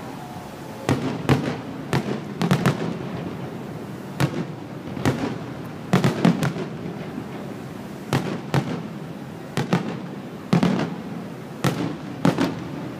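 Aerial firework shells bursting high overhead: a run of sharp bangs, irregularly spaced at about one or two a second and often in quick pairs.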